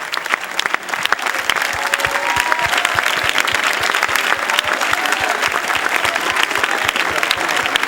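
A church congregation clapping and cheering, answering a call to make some noise, with scattered voices shouting in the crowd.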